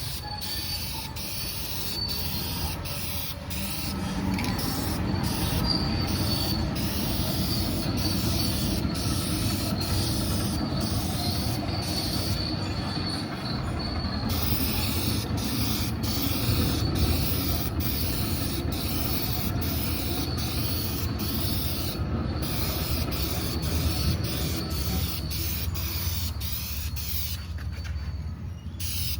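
Sanding on car bodywork, a continuous rasping rub, broken by frequent abrupt cuts.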